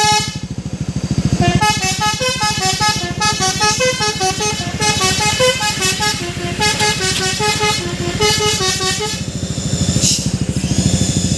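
A truck's basuri musical horn plays a tune of quick, stepped notes for about nine seconds before stopping. An engine runs underneath with a steady low throb.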